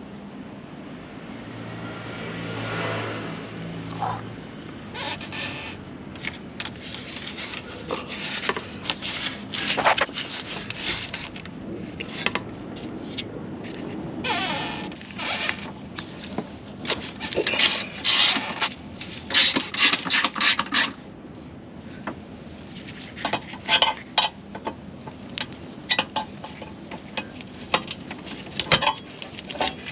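Irregular clinks, clicks and scrapes of hand tools and parts being handled during hands-on repair work, with a short low hum about two seconds in.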